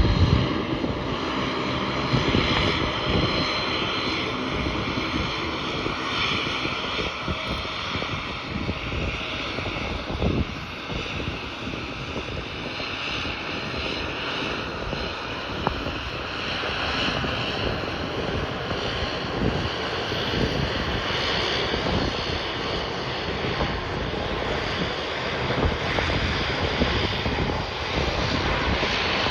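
Jet airliner's engines at takeoff power, a steady loud rumble with a whine that slowly falls in pitch over the first several seconds.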